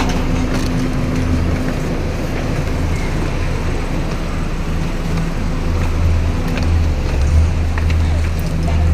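An engine running with a steady low drone, with some wind noise on the microphone.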